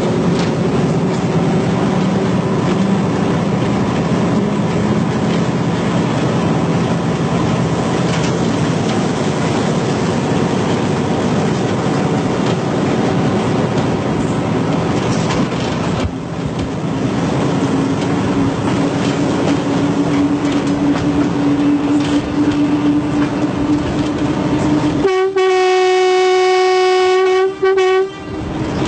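A commuter train running along the track with a steady rumble and a droning engine tone. About 25 s in, its horn sounds a loud, long blast that breaks briefly once before the end.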